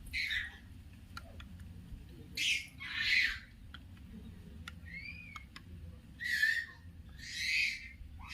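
A bird squawking in short, harsh calls about five times, with one brief rising-and-falling chirp in the middle. Faint light clicks are heard between the calls.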